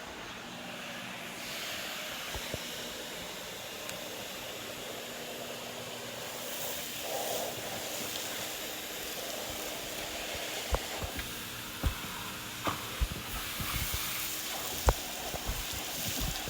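Gutter vacuum running with a steady airy hiss. About halfway through, a series of sharp knocks and clacks begins, the loudest near the end.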